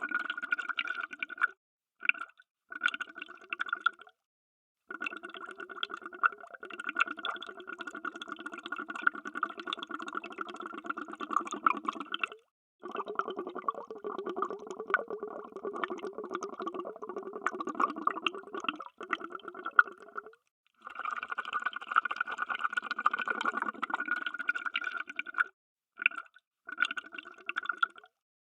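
Underwater bubbles streaming and gurgling in runs of several seconds, broken by a few short silent gaps.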